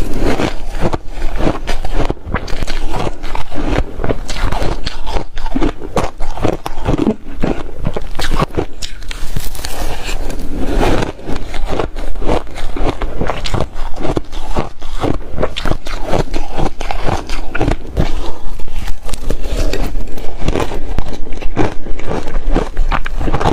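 Close-miked chewing of reshaved refrigerator ice: a dense, continuous run of rapid, irregular crunches.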